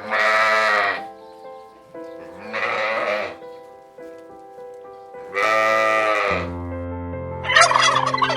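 Turkeys gobbling: three loud calls of about a second each, then a shorter rattling call near the end, over background music.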